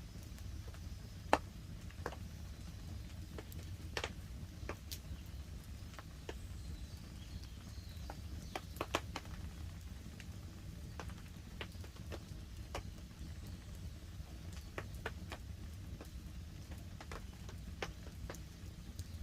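Wood campfire crackling, with irregular sharp pops and one loud pop about a second in, over a steady low hiss of light rain on the tarp overhead.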